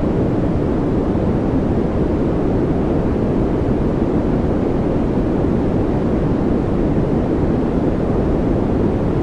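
Continuous white-noise track for focus and relaxation: an even, unchanging rushing hiss, deep-toned, with most of its weight in the lows and little in the highs.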